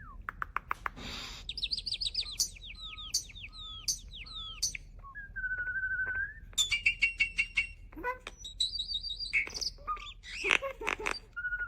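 Starling singing a varied medley: rapid clicks, a quick run of repeated falling whistles, and held wavering whistles, with a few short harsh bursts near the end.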